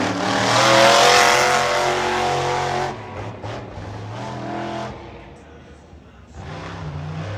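Monster truck engine revving: loud for the first few seconds, easing off in the middle, then rising again near the end.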